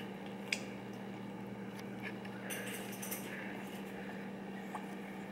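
A few light clicks and taps from a baby feeding himself at his meal, with a sharp click about half a second in and a short cluster of ticks around the middle, over a steady low hum.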